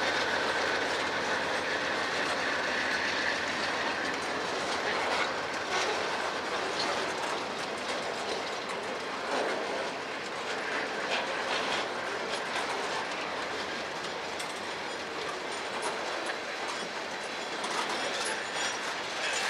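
Freight train of boxcars, gondolas and covered hoppers rolling past close by: a steady rumble of steel wheels on the rails with irregular clicks and clacks as the wheels pass over rail joints.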